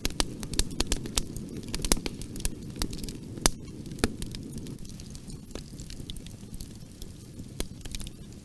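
Wood fire in a fireplace crackling: irregular sharp pops and snaps over a steady low rumble of flame, busiest in the first half.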